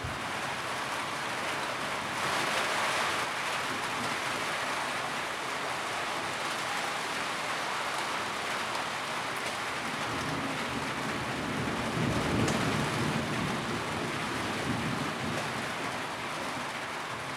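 Steady rain drumming on a tin roof, a dense even patter that swells heavier a couple of seconds in. A low rumble rises underneath from about ten seconds in and fades again after about five seconds.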